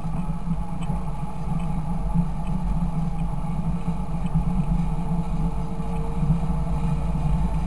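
Fendt 926 Favorit tractor's six-cylinder diesel engine running steadily at an even speed.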